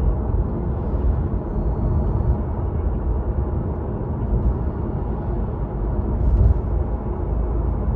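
A 2018 Tesla Model 3 on the move: steady low road rumble with a faint high-pitched whine above it. The owner attributes the whine to the drive unit inverter, though the service centre called it normal.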